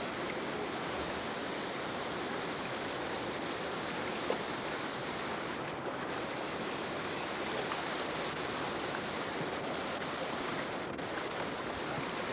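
Steady rush of river water below a dam, an even unbroken wash of noise.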